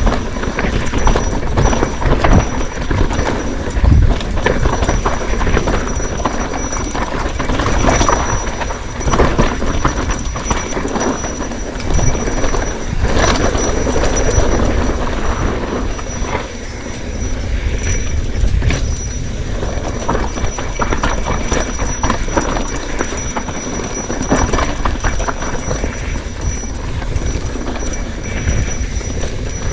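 Continuous clatter and rattle of a bike jolting over a rough, rain-soaked dirt trail, with many quick knocks in an uneven rhythm over rushing noise.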